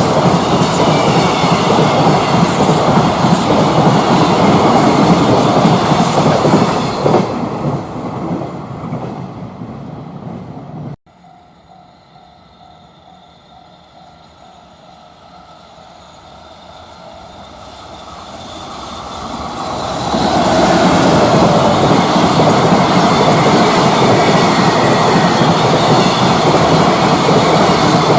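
Container freight train running past at speed, its wagons' wheels clattering over the rail joints; the noise fades away and cuts off suddenly about eleven seconds in. Another freight train is then heard approaching, growing louder until it runs past loudly for the last several seconds.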